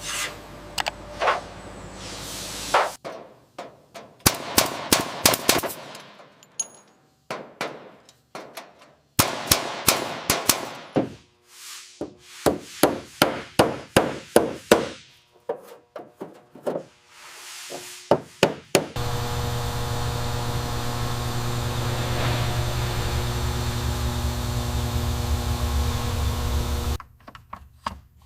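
Workshop metalwork: a long run of sharp metallic knocks and clangs, irregular and often in quick clusters, then a machine starts running steadily with a low hum for about eight seconds and cuts off suddenly near the end.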